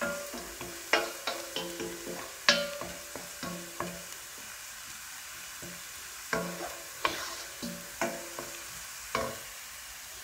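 A spoon stirring onions and carrots frying in a pan: irregular knocks and scrapes of the utensil against the pan, each ringing briefly, over a steady sizzle.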